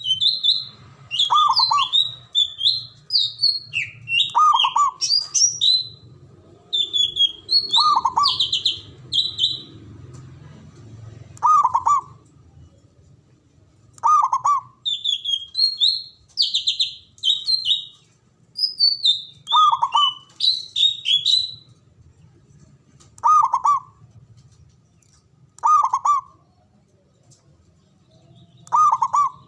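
Zebra dove (perkutut) calling, about nine short low coos a few seconds apart, over frequent quick high chirps and trills of other small birds.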